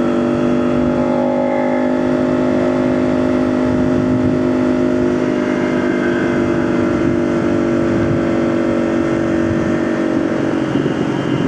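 Motorcycle engine running at a steady speed with rumbling wind noise underneath.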